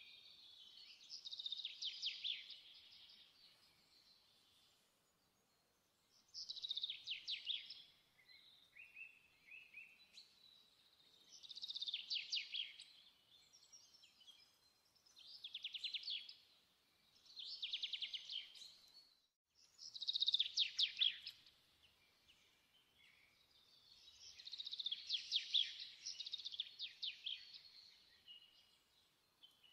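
A small bird singing: trilled phrases of rapid repeated notes, each about a second or two long, coming every few seconds.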